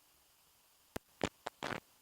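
Near silence, then from about a second in a quick irregular run of sharp clicks, one of them a slightly longer crackle.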